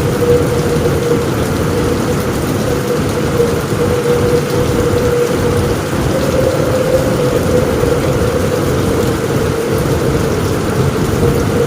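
Steady rain falling on a roof, a constant even hiss with a low rumble underneath and no distinct thunderclap.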